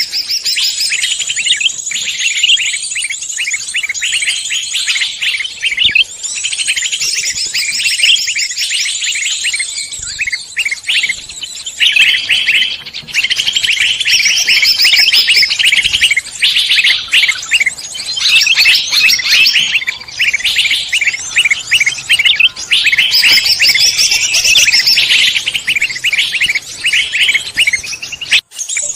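Many songbirds chirping and trilling at once, a dense, unbroken mix of fast high calls, with a brief break just before the end.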